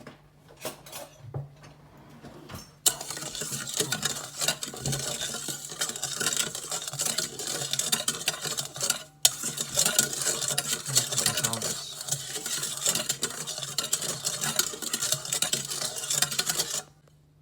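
A spoon stirring granulated sugar into water in a container, scraping and clinking continuously to dissolve it into a 1:1 bee-feeding syrup. It starts about three seconds in after a few light clicks, and breaks off briefly around the middle.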